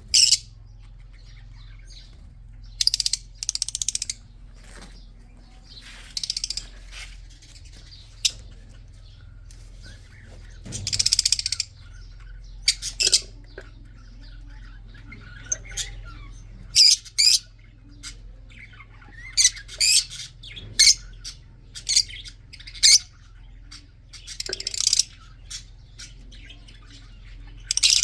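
Budgerigars chirping and chattering in short bursts separated by pauses, over a steady low hum.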